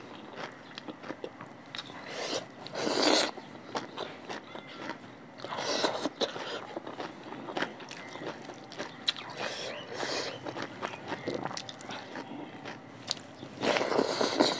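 Close-miked eating sounds: someone chewing and biting mouthfuls of rice, dal and vegetables eaten by hand, with fingers working the rice on the plate. The chewing comes in a few louder spells, the last near the end.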